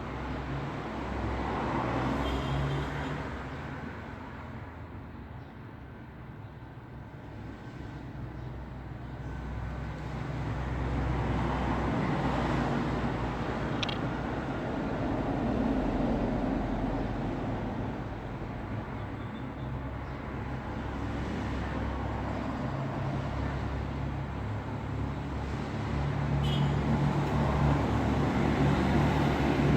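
Road traffic: vehicles passing, the rumble of engines and tyres swelling and fading as each goes by over a steady low hum.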